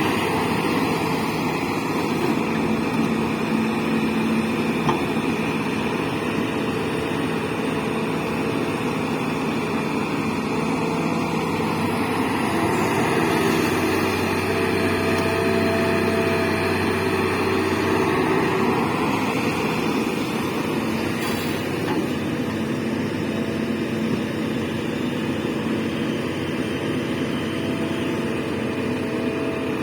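Diesel engine of heavy earthmoving machinery running under changing load, its pitch and strength shifting a few times as the machine works.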